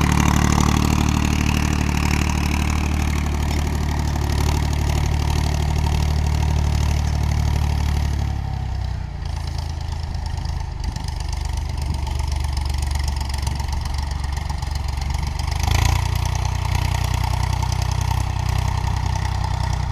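Powertrac Euro 50 tractor's diesel engine running steadily while pulling a harrow. Its note drops about eight seconds in and picks up again near the end, with a brief louder surge as it does.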